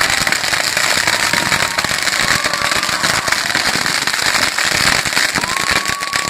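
Large bonfire crackling and popping densely and without a break. A thin whistling tone slides up and holds near the end.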